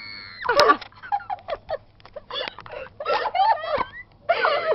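A held, high-pitched scream that breaks off about half a second in, followed by scattered short squeaks and muttered voice sounds from a group of girls.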